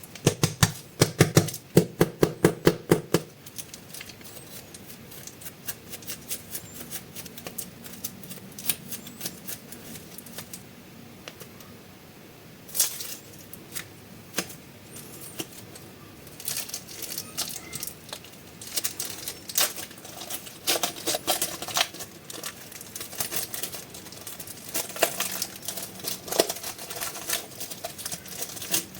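Plastic packaging of super clay being handled and opened: a quick run of loud, sharp clicks for about the first three seconds, then scattered crinkling and clicking that grows denser in the second half.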